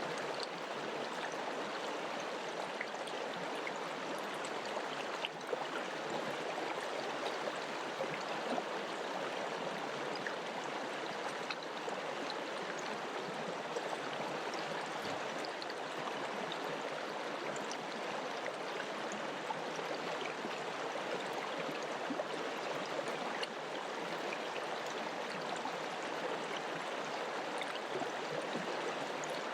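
Mountain river flowing over rocks: a steady rush of running water with faint scattered splashes.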